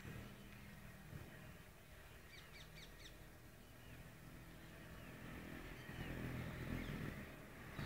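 Faint bird chirps: a quick run of short, high calls about two seconds in, over a low outdoor rumble that swells toward the end.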